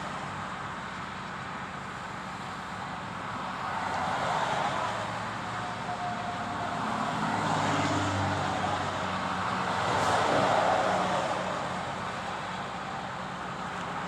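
Road traffic passing, with vehicles swelling past three times, over a steady low hum.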